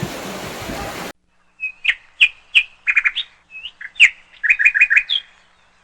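A songbird calling: a run of sharp chirps and quick trills over about four seconds, against a completely silent background. Before it, in the first second, steady rushing-water noise cuts off abruptly.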